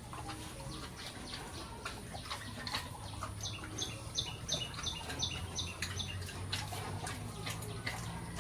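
A bird calling a quick run of about eight sharp, high, evenly spaced notes, roughly three a second, from a little past a third of the way in. Scattered light clicks and a low steady hum sit under it.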